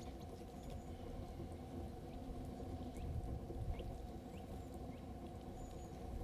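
A steady low rumble, with faint, scattered short chirps of small birds.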